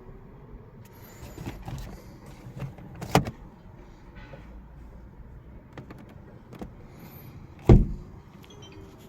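Lighter knocks and clunks on a car, with two heavy, sudden thuds: one about three seconds in and a louder one near the end.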